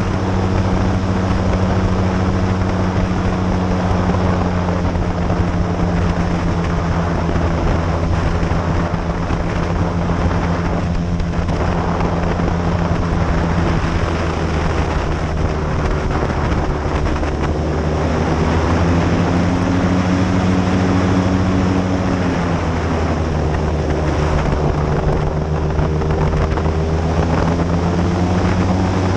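Airboat engine and propeller running steadily at speed, loud, with wind on the microphone. The engine pitch rises a little about two-thirds of the way through, then drops back.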